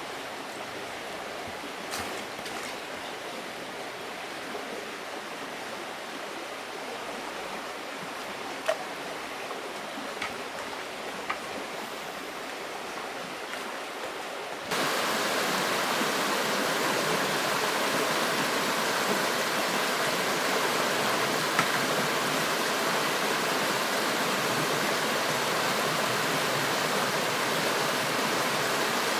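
River water flowing steadily, with a few small clicks in the first half. About halfway through it jumps suddenly to a louder rush of water.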